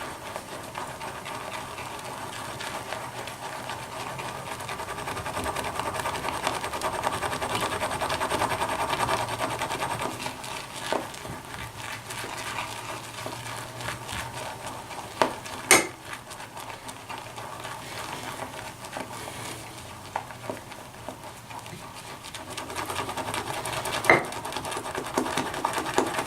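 Mason Lambert shaving brush whipping soft shaving soap into lather in a bowl: a fast, continuous wet swishing and stirring as the suds build. Two sharp clicks stand out, one just past the middle and one near the end.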